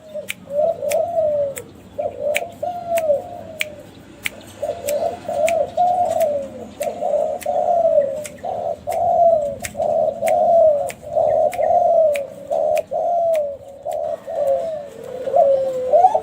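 A Kelantan-strain spotted dove (derkuku) cooing in quick, near-unbroken phrases, each coo arching up and falling away, alongside sharp ticks about one to two a second.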